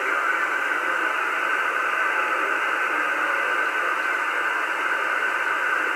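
Steady hiss of static from a CB radio receiver's speaker between transmissions, with the sound held to a narrow radio voice band.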